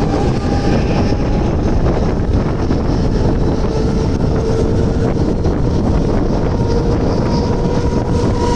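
Mumbai suburban electric local train picking up speed out of a station: steady running noise with a faint electric motor whine, under heavy wind buffeting the microphone at the open carriage door.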